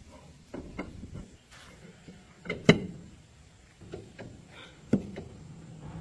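A few scattered sharp knocks and clicks, like objects being handled and set down. The loudest comes about two and a half seconds in, and another about five seconds in.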